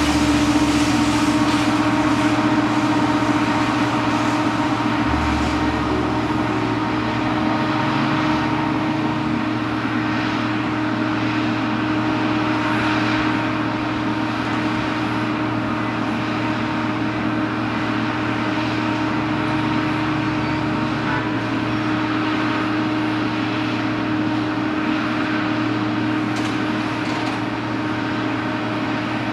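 Jet airliner engines running, a steady rush of noise with a held hum, slowly growing fainter.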